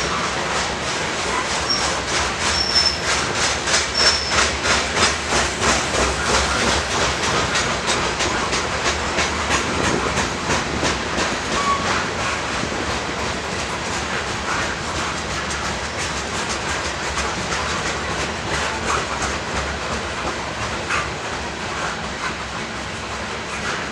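A train rolling past, its wheels clacking rhythmically over the rail joints, with a few short high wheel squeals in the first few seconds. The clacking is loudest in the first third and slowly fades as the train moves on.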